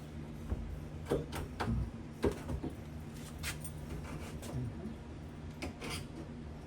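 Irregular clicks and knocks from hand tools at work, about a dozen over a few seconds, over a steady low hum.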